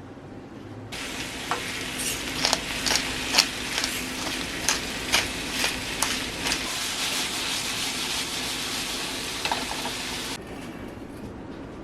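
Food sizzling in a hot frying pan, with scattered sharp pops and crackles of spitting oil. The sizzle starts suddenly about a second in and cuts off shortly before the end.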